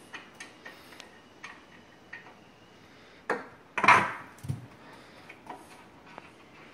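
Metal parts of a collapsible truck rack clicking and clanking as it is handled, with scattered light clicks, a loud ringing clank about four seconds in and a dull thump just after.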